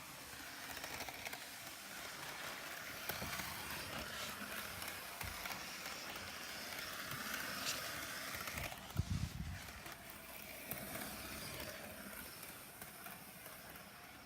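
Hornby Class 73 model locomotive running on a model railway layout at a brisker speed: the electric motor whirring and the wheels rolling on the rails. It grows louder towards the middle and fades again as it passes, with a few low knocks about nine seconds in.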